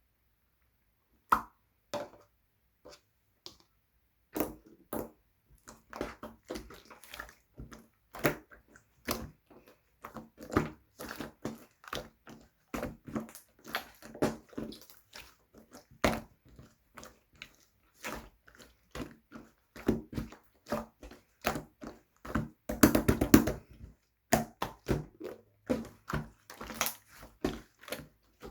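Slime being squished, poked and pressed by hand, a navy slime with pink clay slime on it, giving an irregular run of sticky pops and clicks, with a dense spell of crackling about three-quarters of the way through.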